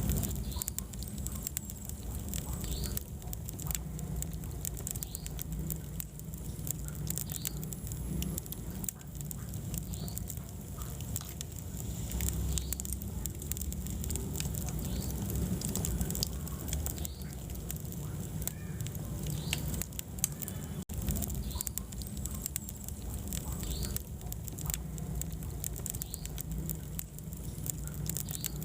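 Wood fire burning in a fireplace, crackling with frequent irregular pops and snaps over a low steady rumble of flame.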